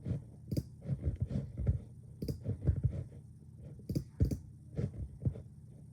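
Irregular sharp clicks and soft knocks, a couple every second, over a faint steady hum: handling noise.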